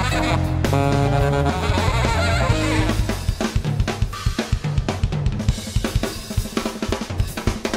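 Jazz combo playing: saxophone, bass and drums for the first few seconds, then a fast drum kit break of rapid snare and bass-drum strokes.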